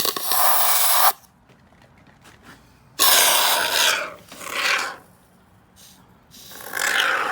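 Can of expanding spray foam hissing in several short bursts as it is squirted in to fill the gaps in a kayak hull.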